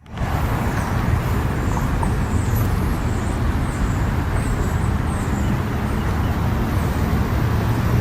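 Steady low outdoor rumble, with a few faint high chirps from small birds between about two and five seconds in.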